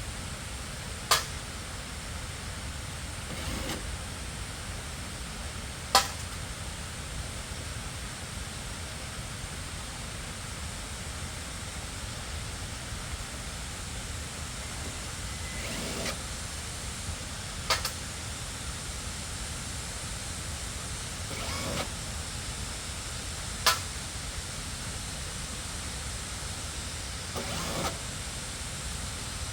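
Steady hiss broken by sharp clicks or knocks: four loud ones several seconds apart and a few softer ones between.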